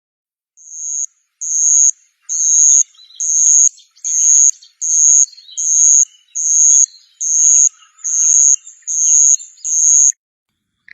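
An insect calling in a steady series of high-pitched buzzing pulses, about one every 0.8 seconds, twelve in all. The first few grow louder and the series stops shortly before the end. Fainter scattered chirps sound underneath.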